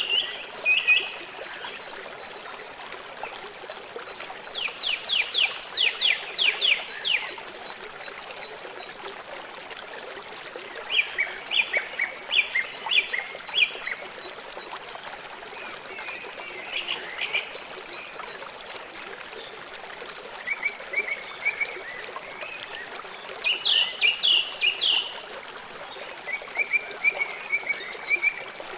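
Songbirds singing short trilled, chirping phrases every few seconds over the steady rush of a running stream.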